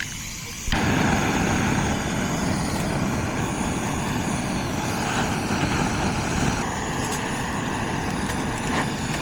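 Handheld butane gas torch blasting the charcoal in a fire pit to revive a dying fire: a steady roaring hiss that cuts in abruptly about a second in.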